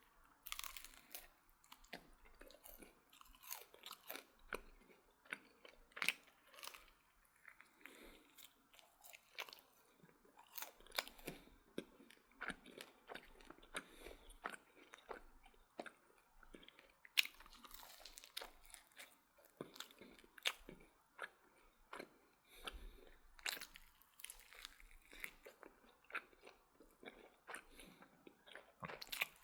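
A person biting and chewing crispy fried chicken close to the microphone: irregular crunches, several a second at times, with quieter chewing between.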